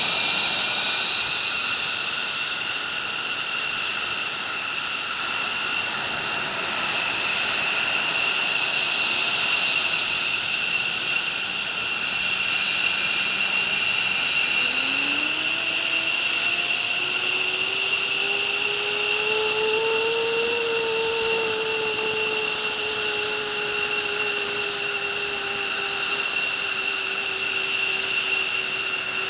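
F-15 fighter's jet engines whining steadily on the ground during engine start. About halfway through a lower tone rises, peaks, then slowly settles, as an engine spools up.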